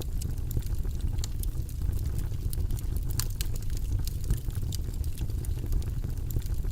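Wood fire burning in a fireplace: a low steady rumble of flame with frequent small crackles and pops, one sharper crack about three seconds in.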